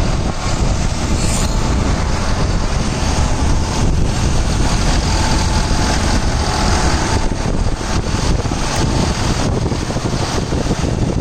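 Tractor diesel engine running steadily, with a faint whine in the middle.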